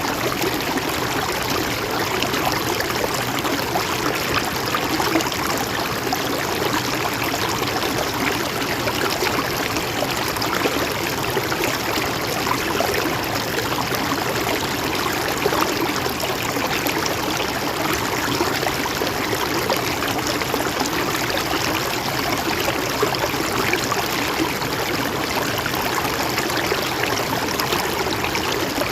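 Mountain stream running over rocks: a steady, even rush of flowing water with fine splashing and trickling.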